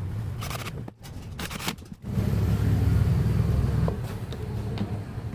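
Table fan running with a low steady rumble, which gets louder about two seconds in and eases off near the end.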